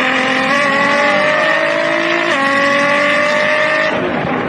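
Nissan GT-R's 3.8-litre V6 accelerating hard: the engine note climbs steadily, drops suddenly at a gear change a little over two seconds in, then climbs again to another shift near the end.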